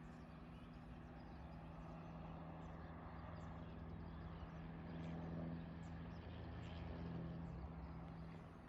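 A motor running with a steady low hum, growing slightly louder about halfway through and then easing off.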